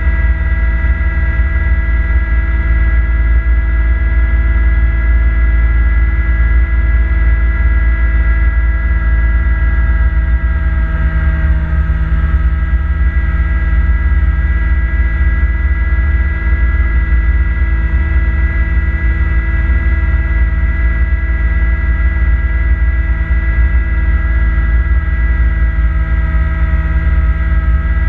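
Kubota B2650 compact tractor's diesel engine running steadily, driving a front-mount snowblower. It makes a deep constant rumble with a steady high whine over it, and dips slightly in pitch for a moment about halfway through.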